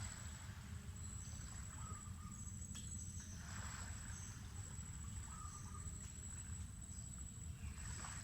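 Mangrove forest ambience. An insect keeps up a steady high-pitched buzz, and a bird repeats a short call about every three and a half seconds, with brief higher chirps, over a constant low rumble.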